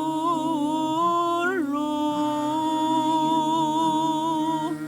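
A solo voice chanting a Javanese ritual mantra in long held notes with wavering ornaments and a quick bend in pitch about a second and a half in, over steady lower sustained tones.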